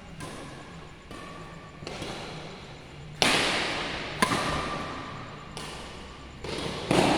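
Badminton rallying: rackets striking a shuttlecock in a quick series of about eight sharp hits, each echoing away in a large hall. The two hardest hits come about three and four seconds in.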